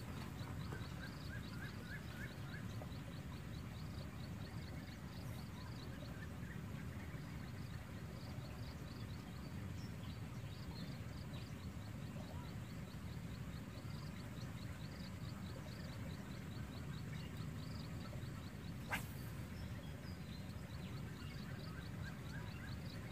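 Outdoor natural ambience: a low steady rumble under a fast, repeated high chirping that runs throughout, with a short run of lower chirps about a second in and a single sharp click about 19 seconds in.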